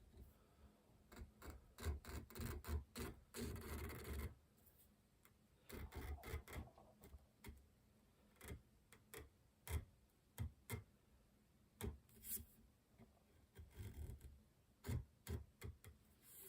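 Irregular short scraping strokes of a hand tool worked against a workpiece, one longer scrape about three seconds in, with scattered sharp clicks and taps.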